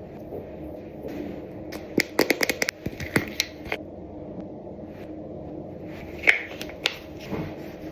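Small plastic clicks and taps of skincare bottles, caps and pumps being handled: a quick flurry about two seconds in, more a second later, and two sharper clicks near the end, over a steady low hum.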